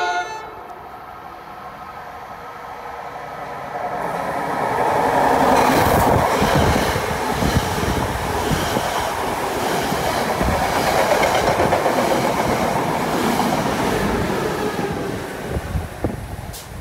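NJ Transit commuter train passing through the station without stopping: a dense rumble of coaches with a rapid clickety-clack of wheels over the rail joints, building from about four seconds in and fading near the end. The last of a train horn blast cuts off right at the start.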